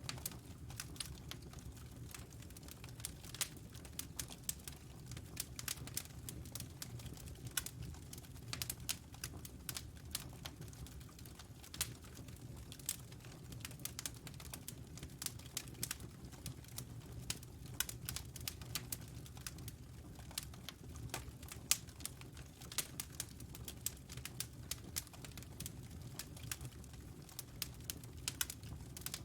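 Fire burning in a fireplace, crackling with irregular sharp pops several times a second over a steady low rumble.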